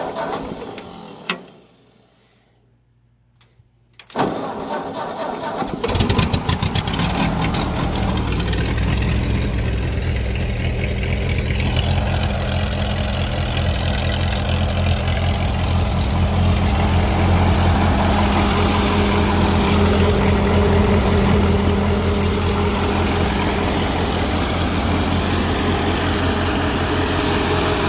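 Ford 2N tractor's four-cylinder flathead engine being started: a first sound dies away about a second in, then the starter cranks again about four seconds in, the engine catches about six seconds in and runs steadily. It is running again after its ignition was rewired and the coil, condenser and resistor were replaced.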